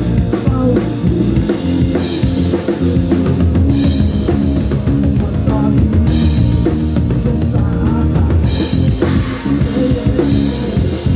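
Live rock band playing an instrumental passage between sung lines. A drum kit with bass drum and snare is prominent over held low instrument notes, and cymbal crashes come in now and then.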